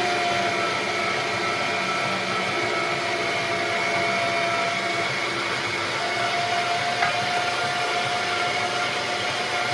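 Chard No. 12 electric meat grinder running steadily with a motor whine, pushing ground venison and fat through. A single brief click about seven seconds in.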